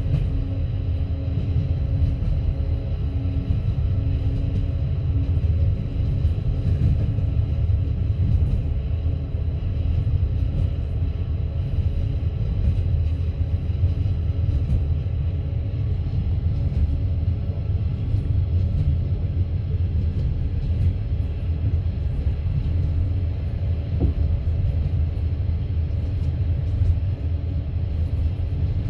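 Passenger train carriage under way, heard from inside: a steady low rumble of the wheels on the rails, with a faint steady hum above it.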